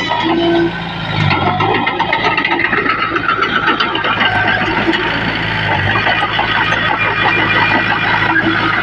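Heavy diesel engine of earthmoving machinery running steadily, with a dense rapid clatter over a steady low drone.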